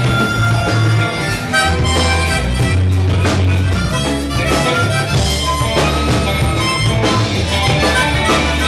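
Live rock band playing, with a harmonica carrying the lead line over bass and drums.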